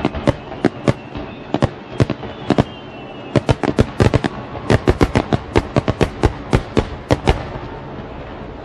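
Fireworks going off in rapid, irregular sharp cracks, several a second, with a short lull about three seconds in. The bangs stop about seven and a half seconds in, leaving a faint hiss.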